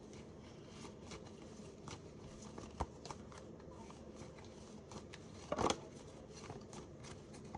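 Tarot cards being handled and shuffled: a run of soft clicks and rustles, with a louder clatter about five and a half seconds in.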